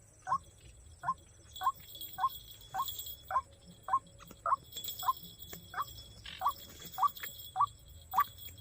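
White-breasted waterhen calls: a short harsh note repeated evenly, about two a second.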